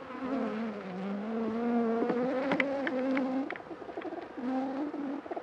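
A honey bee buzzing close by, its pitch dipping and rising as it flies around; it fades about three and a half seconds in and comes back briefly near the end. A few light clicks sound under the buzz.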